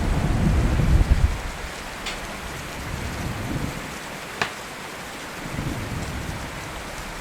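Steady rain with rolling thunder: a low rumble peaks about a second in, then eases to the hiss of the rain. Two sharp ticks come about two and four and a half seconds in.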